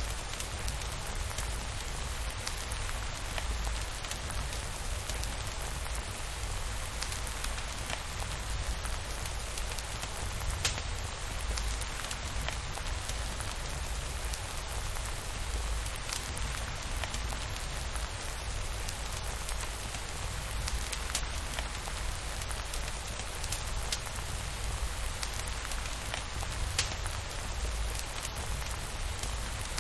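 Steady rain, an even hiss over a deep low rumble, with scattered sharp ticks every few seconds.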